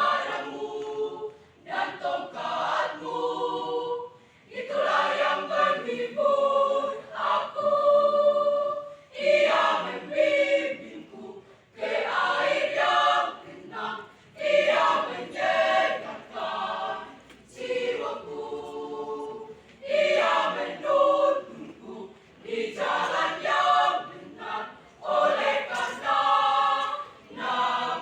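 School choir singing unaccompanied, in short phrases with brief pauses between them.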